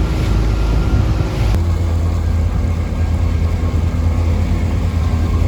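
Gladiator 9.9 outboard motor running steadily as the boat cruises, with a low hum over wind and water noise. The sound shifts abruptly about a second and a half in, then carries on steadily.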